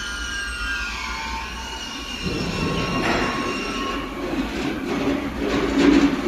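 Butt fusion welding machine at work: a high, multi-tone squeal that glides downward over the first few seconds, then a lower, uneven mechanical noise that grows louder.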